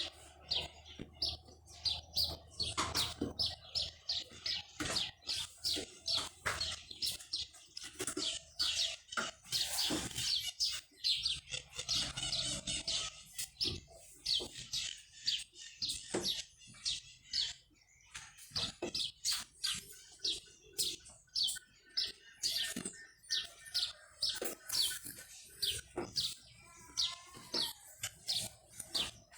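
Small birds chirping in quick, continuous short calls.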